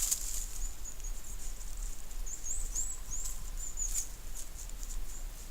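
A small bird's high, thin chirps and short twittering notes, thickest between about two and four seconds in, over a low steady rumble.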